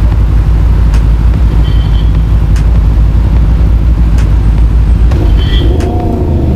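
Yamaha MT-10's crossplane inline-four engine running at low speed, a loud steady low rumble as the bike creeps forward.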